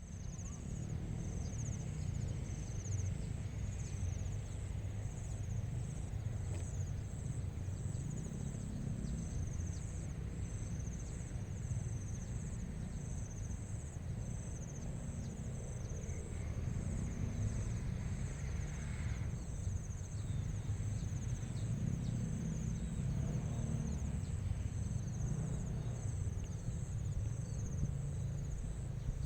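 Crickets chirping in an evening grass meadow: a high-pitched, evenly pulsing trill that keeps going, over a steady low rumble.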